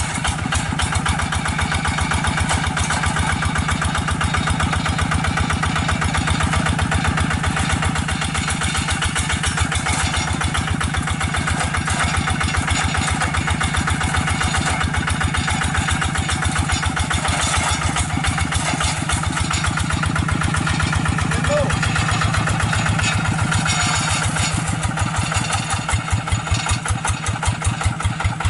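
Hand tractor's single-cylinder diesel engine running with a steady rapid chugging. Near the end the firing beats slow down and become more distinct.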